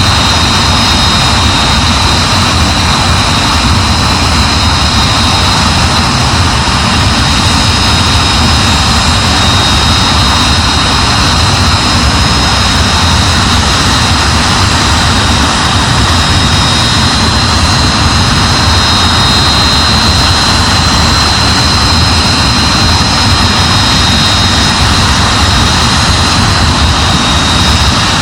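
Hawker Hunter's jet engine running steadily on a ground run: a loud, even rush with a high-pitched whine held at a constant pitch.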